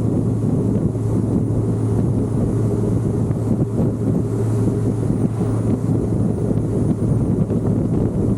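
Big-cam LS7 V8 of a C6 Corvette Z06 running at a steady, even engine speed, its exhaust a constant deep drone, with wind buffeting the camera microphone.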